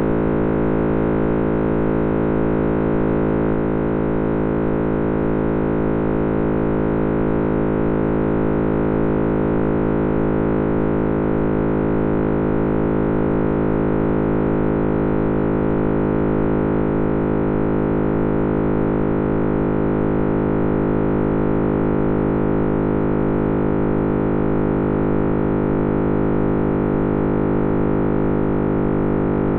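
Computer-simulated sound of the Big Bang: a steady, dense drone of many held tones, a few of them gliding slowly lower in pitch.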